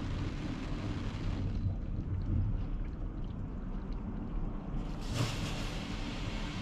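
Daifuku TWINFECT FORCE automatic gantry car wash running over a car: a steady rushing noise with a low rumble. The hiss drops away about a second and a half in and comes back strongly near the end.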